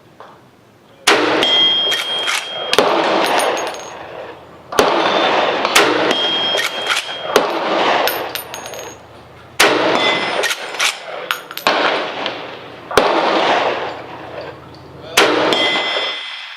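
Winchester 1895 Russian musket lever-action rifle firing several shots at a steel gong, the biggest about a second in, near five seconds, near ten seconds and near fifteen seconds. Each shot is followed by a long echo and a thin metallic ringing, with smaller sharp knocks in between.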